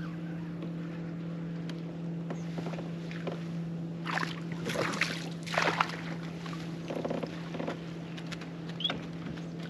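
Electric trolling motor on a kayak humming steadily. Water splashes briefly a few times between about four and six seconds in.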